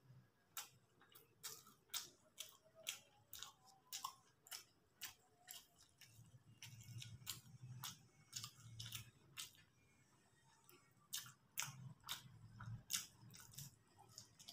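Faint close-up chewing of a mouthful of chow mein noodles: irregular wet mouth clicks and smacks, roughly two a second.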